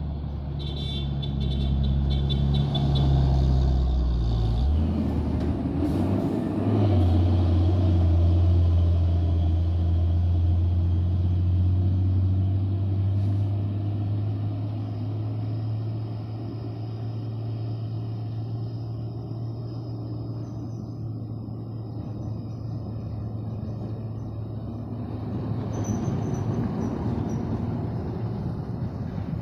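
Diesel engine of a loaded dump truck pulling through a bend. A high whine sounds for the first few seconds. The engine note drops about five seconds in, then holds a steady, loud drone.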